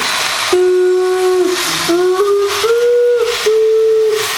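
A horn- or whistle-like tone sounding in about five held notes at shifting pitches over a steady hiss, with short breaks and small pitch slides between notes.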